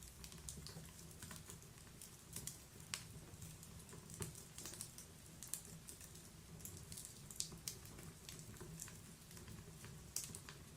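Wood fire burning in a log fireplace, crackling with scattered, irregular sharp pops over a low steady rumble.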